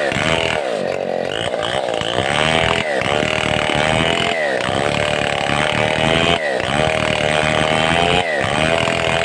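Stihl 070 two-stroke chainsaw running at high revs while ripping a mahogany log into planks. Its pitch dips briefly and recovers about every one and a half to two seconds, roughly six times, as the chain bogs under load in the cut.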